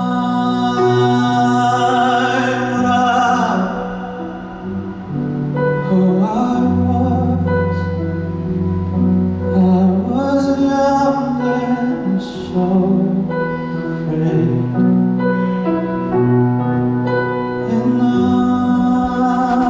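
A male singer performing a slow ballad live, with held, wavering sung notes over a sustained instrumental accompaniment and a moving bass line.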